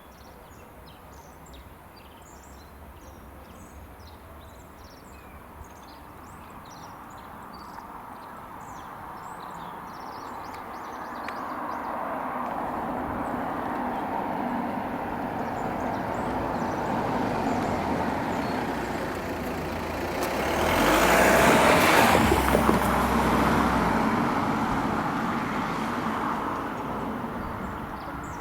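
A JR Hanwa Line train approaching and passing at high speed, growing louder over about ten seconds. It is loudest for a few seconds about two-thirds of the way in as it rushes past, then fades.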